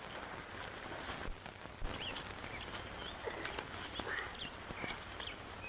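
Birds chirping in short, scattered calls over the steady hiss of an old film soundtrack, with a few soft knocks.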